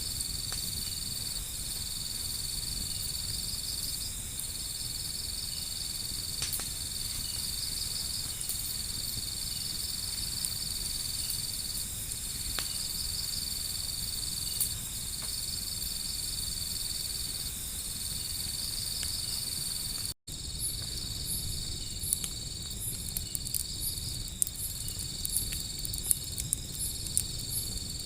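Steady high-pitched insect chirping in long trills that break off at regular intervals, mixed with sparse sharp crackles from a wood fire. After an abrupt cut about two-thirds of the way in, the crackles come more often.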